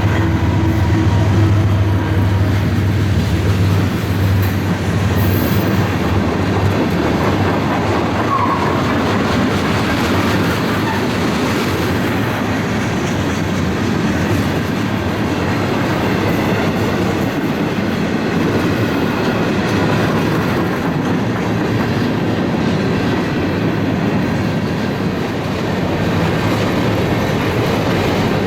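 A CSX freight train passing close by. The low drone of the diesel locomotive fades over the first several seconds, then the cars roll past with a steady rolling noise on the rails.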